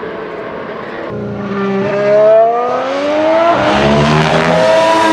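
Formula 1 car's 1.6-litre turbocharged V6 hybrid engine on track. Its pitch dips, then climbs through gear changes as it grows louder.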